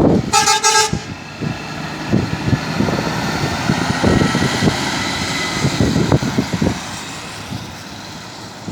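A truck's horn sounds one short blast just after the start, then a heavy truck passes on the highway, its engine and tyre noise with a slowly falling whine fading away.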